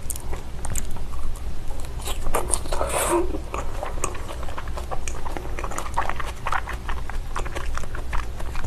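Close-miked chewing of a mouthful of raw salmon sashimi with capers and onion: wet squishing and many small, quick mouth clicks, with a louder, denser stretch of squelching a few seconds in.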